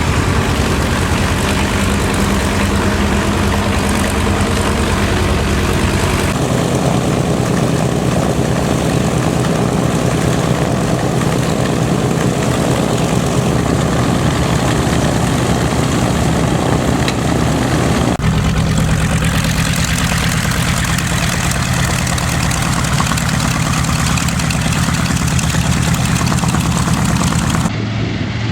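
B-25 Mitchell's twin radial engines running at low power with propellers turning, a steady throb with a low pitched drone. The tone shifts abruptly about six seconds in and again about eighteen seconds in.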